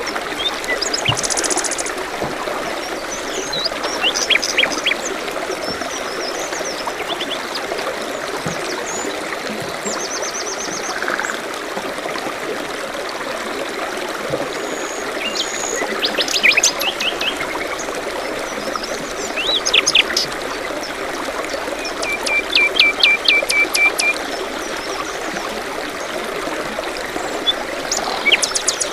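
Stream water running steadily, with songbirds chirping and singing over it: scattered short calls and trills, including a rapid run of repeated notes about three-quarters of the way through.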